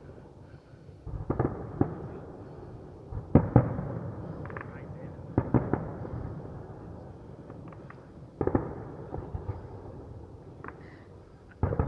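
Fireworks going off: five loud bangs two to three seconds apart, several followed by brief crackling, over a steady low rumble.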